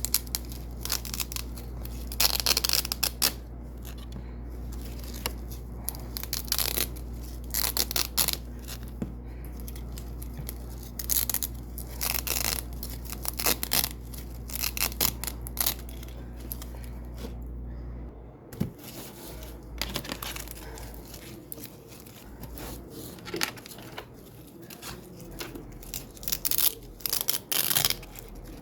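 Double-sided hook-and-loop (velcro) strips being pulled off white hook tape again and again, each pull a short crackly rip at an uneven pace.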